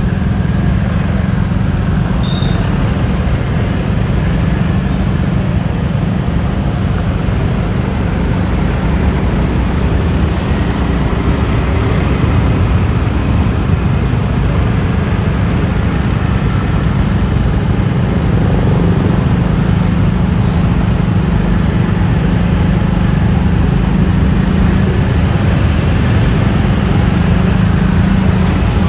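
Road noise from riding a Yamaha Lexi LX 155 scooter in traffic: engine, tyres and wind blend into a loud, steady rumble.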